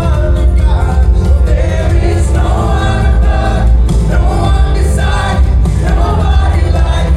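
Live worship band with singers: several voices sing over heavy bass and drums.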